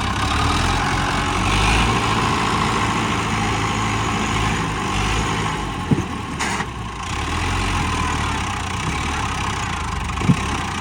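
Diesel tractor engine running steadily at low revs, with a couple of short sharp clicks about six seconds in and again near the end.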